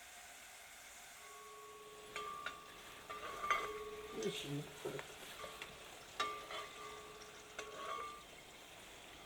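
Kitchen work: a metal utensil knocking and scraping in a pan, setting off brief ringing tones, with irregular clicks over a faint frying sizzle.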